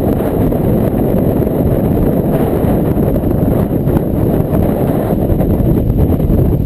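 Strong Bora wind buffeting the microphone: a loud, steady low rumble with no let-up.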